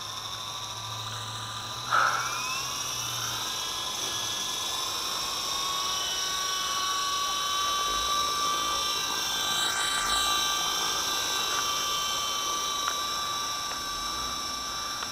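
Small electric RC helicopter (WLtoys V913) spinning up: its motor and rotor whine rises in pitch over the first few seconds, then holds as a steady high whine. A short sharp knock comes about two seconds in, and the pitch swings briefly about ten seconds in.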